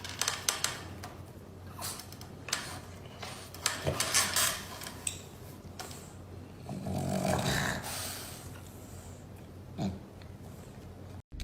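A pet animal making a series of short, noisy sounds, with a longer one about seven seconds in.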